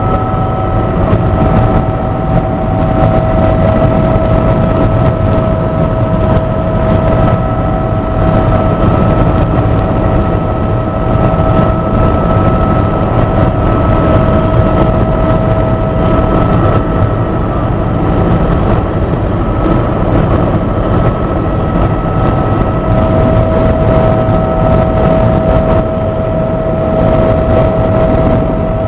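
Helicopter in flight: steady rotor and engine noise with a constant high whine over a dense low rumble.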